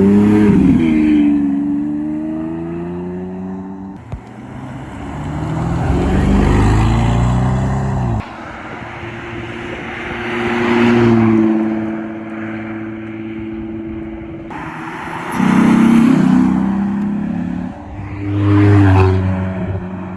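Supercars and classic cars driving past one after another, engine notes rising and falling as each accelerates by, about five swells in all. The sound changes abruptly several times, as short clips cut from one car to the next.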